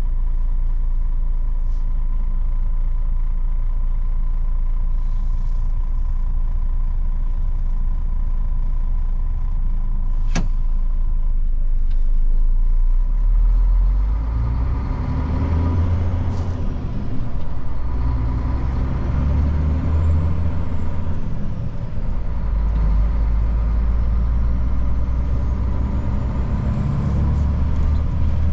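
Old Mercedes truck's engine running steadily, then from about halfway through pulling harder as the truck gets under way, with a whine that rises and falls. There is a single sharp click just before it pulls away.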